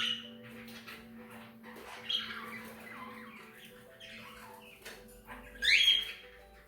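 English budgerigars chattering, with loud harsh squawks at the start, about two seconds in, and the loudest near the end.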